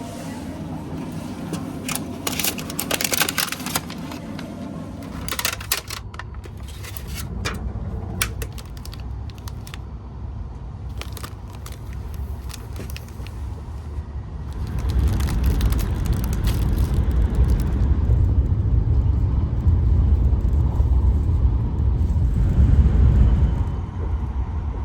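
Light crinkling, scraping and clicking handling noises over a low rumble. About fifteen seconds in, the low rumble of a moving train grows louder and holds steady, easing near the end.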